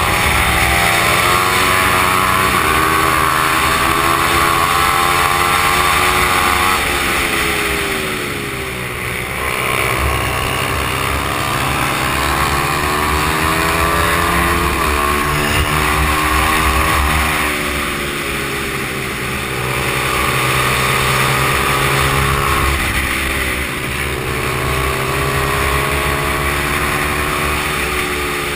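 Stock Honda XR100 mini bike's small single-cylinder four-stroke engine running hard around a race track. Its pitch climbs, then drops sharply several times as the rider shifts or slows for corners, over a steady rush of wind.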